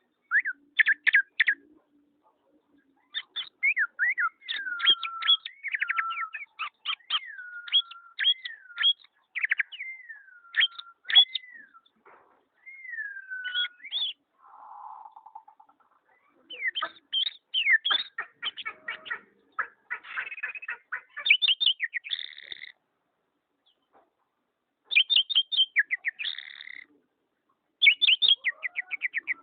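A pet songbird singing a varied song of sharp chirps, whistled glides and fast trills, delivered in phrases with short pauses between them.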